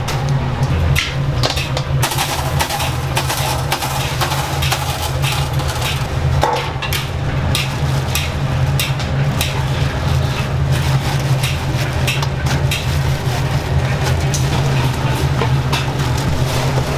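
A steady low machine hum with frequent short clicks and knocks over it.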